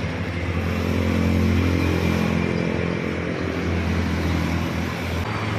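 Freshly overhauled single-cylinder motorcycle engine running at a steady idle, a little louder from about a second in; it was rebuilt with a new connecting-rod bushing.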